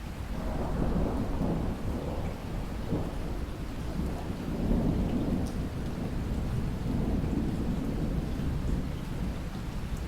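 Thunder rumbling over steady rain; the rumble builds about half a second in and goes on in slow, long swells.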